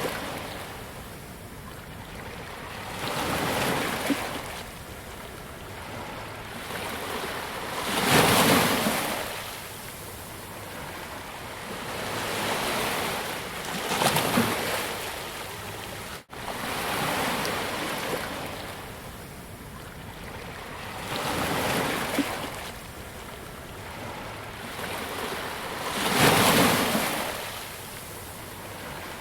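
Ocean waves breaking and washing up on a beach, rising and falling about five times, the loudest surge about a quarter of the way in. The sound cuts out for an instant just past halfway.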